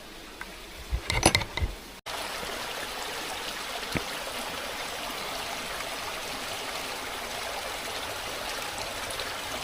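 Running water of a fell stream rushing steadily, starting abruptly about two seconds in.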